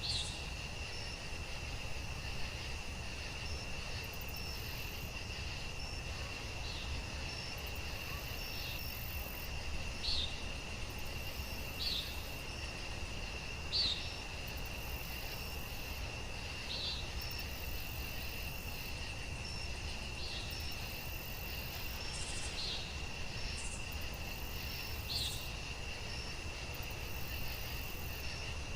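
Night insect chorus: crickets trilling steadily in one unbroken high tone, with short higher chirps recurring every second or two over a low, even rumble.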